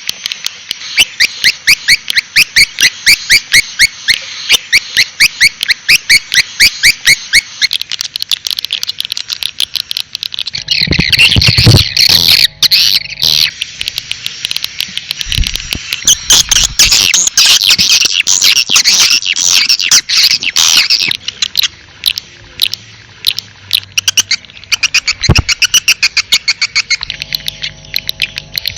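Birds chirping rapidly, high-pitched calls repeated several times a second, then a busier tangle of overlapping chatter. A few low thuds come in about eleven seconds in and again near the end.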